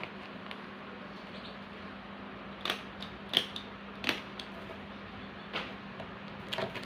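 A handful of sharp clicks and taps, about five spread over a few seconds, from small hard items being handled while bird rings are packed, over a steady low hum.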